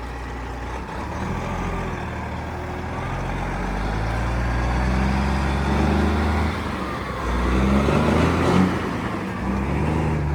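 Detroit Diesel Series 60 engine of a Kenworth T800 dump truck pulling away and accelerating through the gears of its 13-speed manual transmission, the engine note building, dropping at each of a couple of gear changes and building again. The shifts are smooth.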